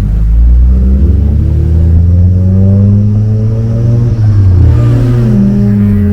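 Car engine accelerating, its pitch climbing for several seconds, dropping sharply about four and a half seconds in as at a gear change, then rising again and levelling off.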